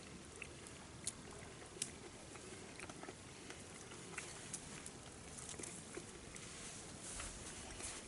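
Faint campfire crackling: scattered small sharp pops at irregular intervals over a low, steady hiss.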